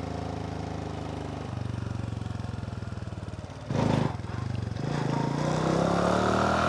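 Motorbike engine running weakly while the bike loses power, then rising steadily in pitch over the last couple of seconds as the power comes back. A short loud rush of noise comes about four seconds in.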